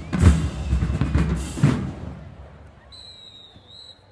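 A marching band's percussion hitting together in loud accents, bass drums with cymbal crashes, then stopping about two seconds in and ringing away. A high steady tone starts about three seconds in.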